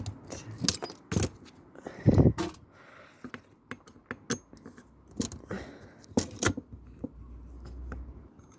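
Metal parts of a dismantled video player being handled: an uneven run of clinks, rattles and knocks, with one louder knock about two seconds in.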